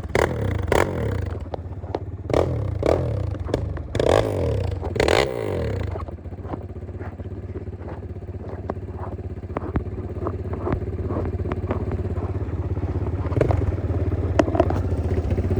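Enduro motorcycle engine revving in bursts over rough ground, with frequent clattering knocks, then running more evenly from about six seconds in.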